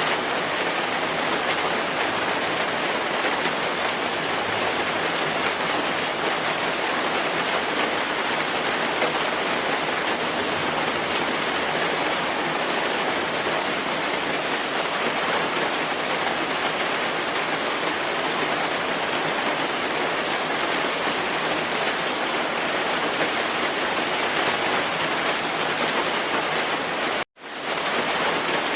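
Steady, dense rainfall hissing evenly, with no thunder. About 27 seconds in it cuts out to silence for a split second, then resumes at once.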